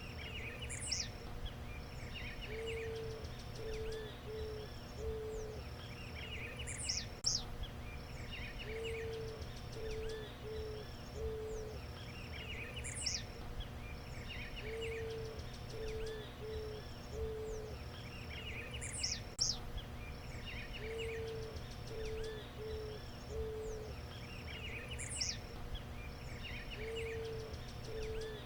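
Eared dove cooing: a low phrase of one longer coo followed by a few shorter ones, repeated about every six seconds. Other birds chirp higher over a steady background hum.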